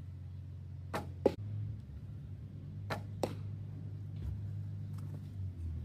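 Two arrow shots from a homemade hickory board bow (40-pound draw), about two seconds apart. Each is a sharp string release followed about a third of a second later by the smack of the arrow hitting a frozen target bag. A steady low hum runs underneath.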